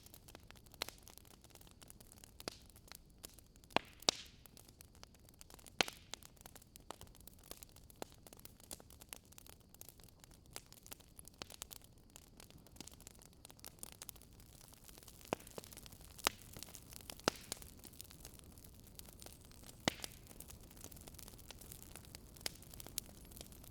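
Wood fire in a fireplace crackling: irregular sharp pops and snaps over a low steady hiss.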